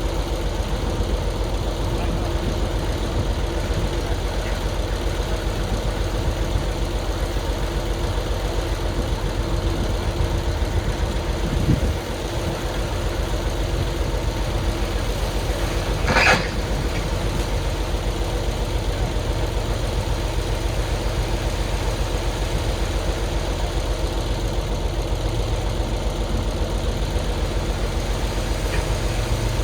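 A diesel engine idling steadily. There is a low thump about twelve seconds in and a brief, sharp burst of noise a few seconds later.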